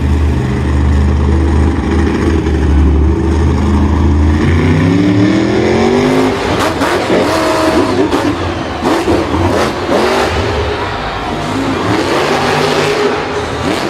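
Engine revving: a steady run whose pitch rises for a couple of seconds about four seconds in, then a rougher stretch with repeated knocks and clatter.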